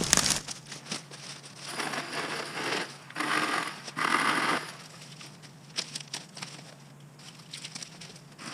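Dry brush and twigs crunching and crackling in several short bursts of about half a second each, with scattered small snaps in between.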